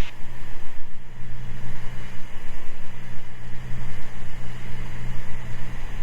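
Cessna 206 Stationair's six-cylinder piston engine and propeller running steadily in cruise descent, a constant low drone heard from inside the cabin.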